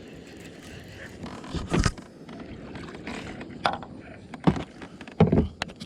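Knocks and scrapes of fishing gear against a kayak hull, several sharp thuds a second or so apart, as a hooked bass is reeled in and a landing net is readied.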